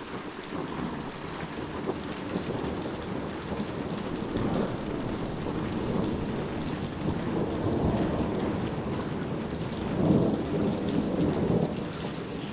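Steady rain with rolling thunder rumbling over it, swelling several times and loudest about ten seconds in.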